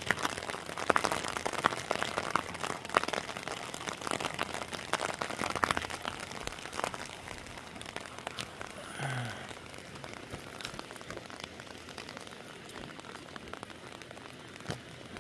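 Heavy rain falling, with dense drops pattering sharply through the first six seconds and thinning out after that.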